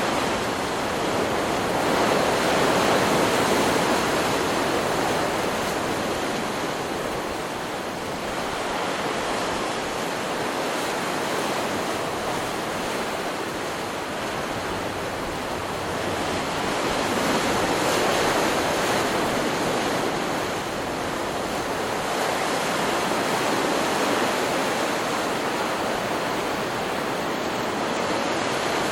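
Ocean surf from a stock beach recording: waves breaking and washing in as a continuous hiss that swells and eases every several seconds.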